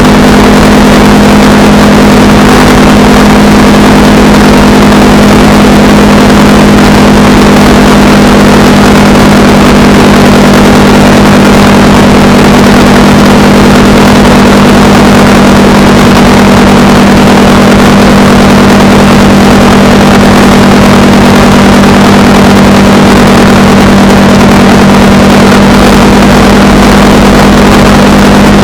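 Honda Rebel 300's single-cylinder engine running at a steady cruise, with loud wind rush over the microphone.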